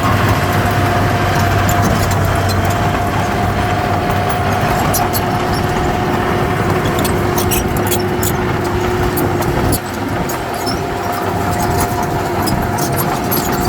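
Heavy diesel earthmoving machinery running steadily, with a steady whine and scattered light clicks; the low rumble dips briefly just under ten seconds in.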